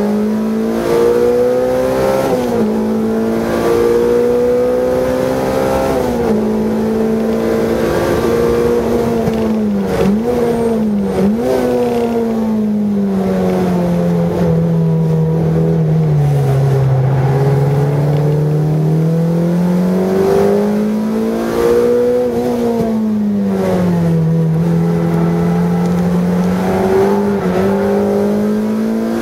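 Car engine heard from inside the cabin while driven hard on track, its pitch climbing under acceleration and sinking slowly through braking and corners, with two quick dips at gear changes about ten and eleven seconds in.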